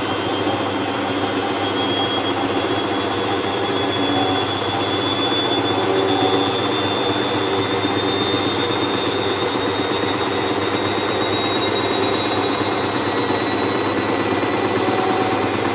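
Hoover Vision Tech washing machine running loudly: a steady mechanical rush with a high motor whine that rises slowly in pitch as the motor speeds up.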